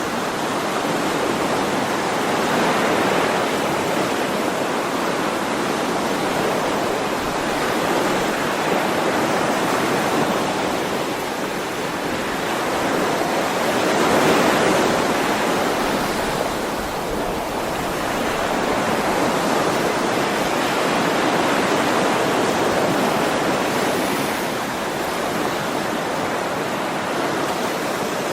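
Ocean waves washing in on a shore, a steady rush of surf that swells and eases every few seconds.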